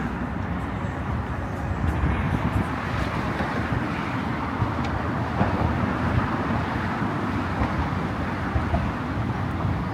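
Steady motor-traffic noise with wind buffeting the microphone.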